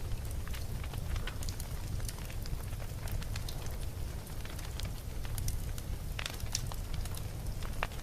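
Campfire burning: a steady low rumble of flames with irregular crackles and sharp pops of burning wood, a few louder pops in the second half.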